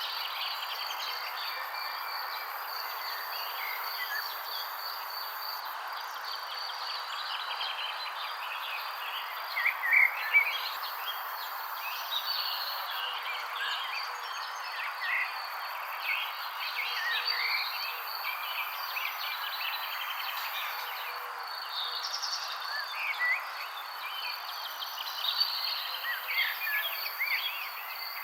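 Birds chirping in many short, overlapping calls over a steady insect drone and a constant soft hiss. A few louder chirps stand out about a third of the way in.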